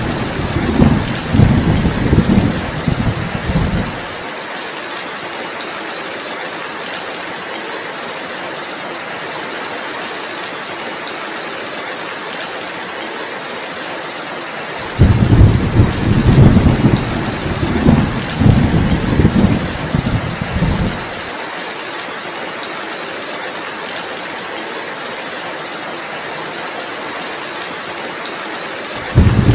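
Steady heavy rain with rolling thunder: deep rumbles for the first four seconds, again from about halfway through for some six seconds, and once more right at the end.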